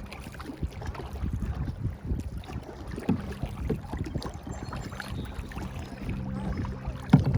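Wind rumbling on the microphone over the water sounds of a paddled canoe, with irregular small knocks and a couple of louder knocks near the end.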